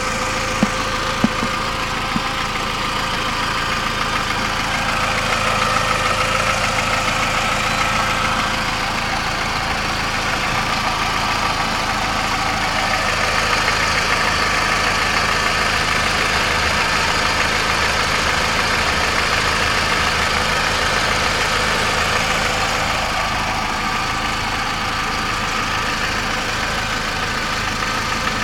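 Volkswagen Golf Mk4 engine idling steadily, with steady whining tones over the running and a couple of sharp clicks in the first second or two. It is the strange noise that started after the engine overheated.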